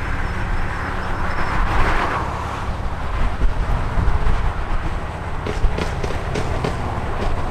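Car and road vehicle noise, a steady low rumble, with a few sharp clicks in the second half.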